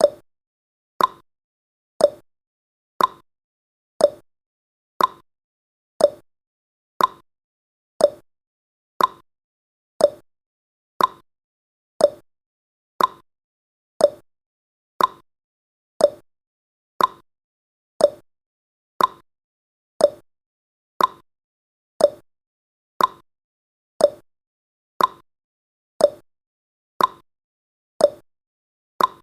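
Countdown timer's ticking sound effect: one short, sharp tick every second, steady throughout.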